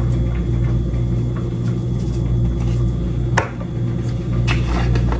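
Steady low hum with a few light clicks, one about three and a half seconds in and another near the end.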